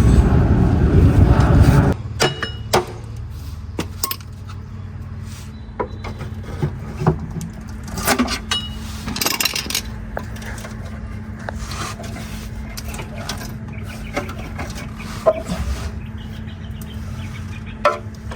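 A vehicle engine runs loudly for about two seconds and cuts off suddenly. Then come scattered sharp metallic clinks and knocks of tools and parts being handled, over a faint steady hum.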